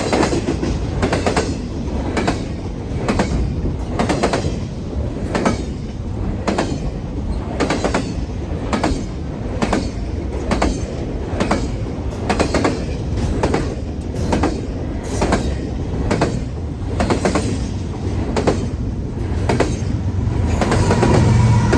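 Canadian National freight train rolling past, its car wheels clicking over rail joints in an even rhythm, a little more than once a second, over a steady low rumble. The rumble grows louder near the end.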